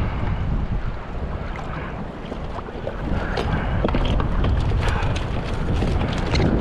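Wind buffeting the microphone on open water, a constant low rumble. From about halfway through come a run of sharp clicks and knocks from gear being handled.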